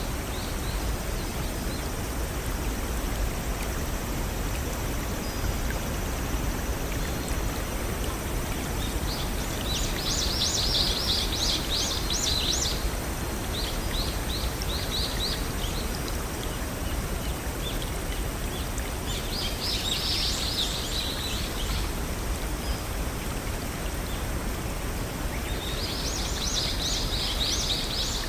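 Small forest waterfall and brook running in a steady rush of water, with a songbird singing a short phrase of rapid high notes three times, about ten, twenty and twenty-six seconds in.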